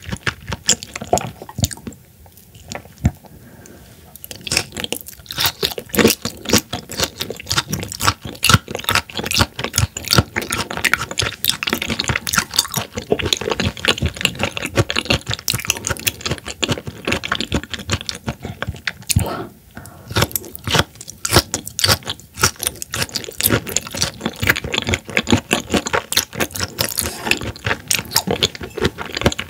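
Close-miked chewing and wet mouth sounds of someone eating raw horse mackerel sashimi, made up of many quick, irregular clicks. There are two brief quieter pauses, about two seconds in and about twenty seconds in.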